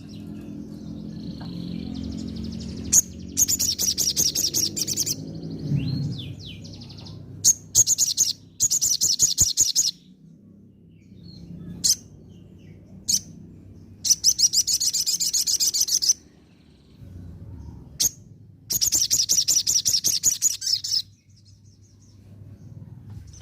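Olive-backed sunbird (sogon) singing: four rapid, high-pitched trilled phrases of about two seconds each, with single sharp chirps in between, over a low background rumble.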